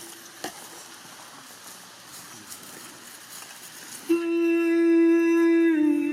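About four seconds of faint, quiet background with a single light tap, then a voice comes in on a long, steady held note, dropping a little lower near the end.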